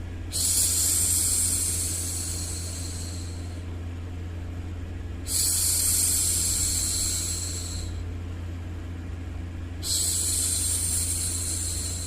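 A woman's voice making long hushing 'shhh' sounds to soothe a baby, three times, about every four and a half seconds. Each starts sharply and fades out over about three seconds, over a steady low background noise.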